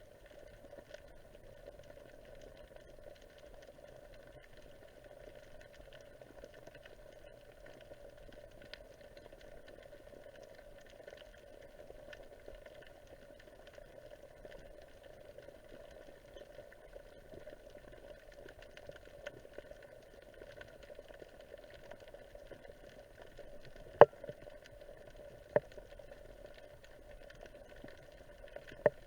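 Underwater ambience heard through a camera's waterproof housing: a steady, faint crackling hiss. Near the end come three sharp knocks, the first the loudest.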